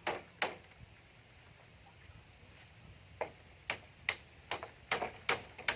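Hammer blows on wood: two knocks, a pause of nearly three seconds, then a steady run of blows about two and a half a second.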